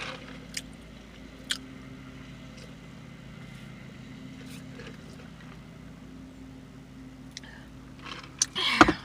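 Steady low hum of a car engine idling, with a few faint clicks. Near the end comes a short, louder vocal sound.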